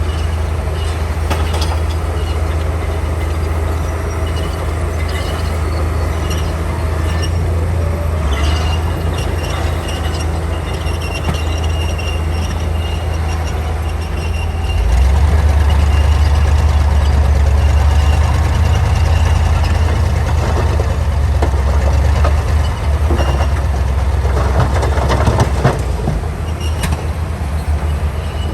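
Komatsu D41P crawler bulldozer's diesel engine running under load, with its steel tracks squealing and clanking. The engine gets louder about halfway through, and there is a run of clanks near the end.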